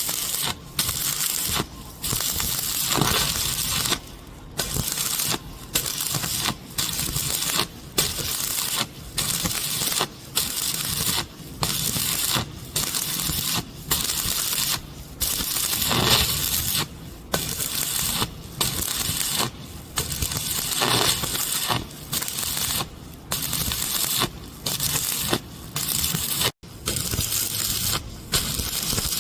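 Stick (shielded metal arc) welder arc crackling and sizzling on a steel pipe joint, with short breaks in the arc every second or so.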